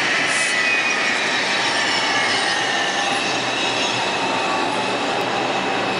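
R142 subway train pulling into a station: steady rumble of wheels on rail, with several high squealing tones from the wheels and brakes that drift slightly down in pitch.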